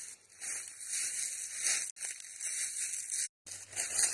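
Footsteps crunching through dry leaf litter in uneven steps. The sound cuts out briefly twice as the streaming connection drops.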